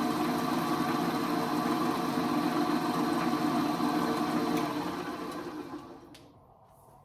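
Rockwell Delta drill press running with a Forstner bit in the chuck: a steady motor-and-spindle hum, switched off about four and a half seconds in and spinning down to a stop. This is a test run after the arbor and chuck were reinstalled to cure bad runout.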